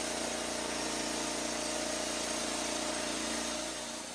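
Portable band sawmill's engine running steadily, easing off slightly near the end.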